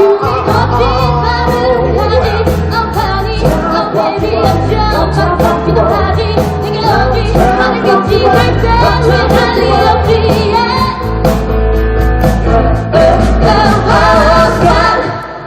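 A live band playing a Korean pop song with a singer. Sung melody runs over steady accompaniment with a regular beat.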